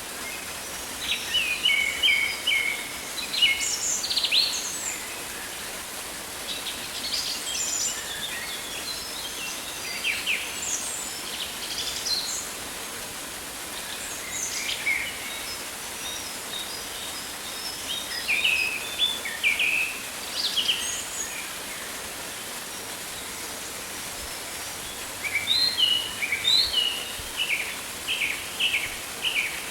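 Birds chirping and trilling in scattered bouts of short, high calls, over a steady hiss of background ambience.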